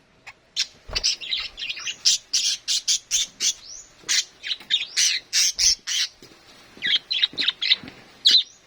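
Pet budgerigars chattering and squawking in rapid, high calls, a dense run that pauses briefly about six seconds in, then picks up again.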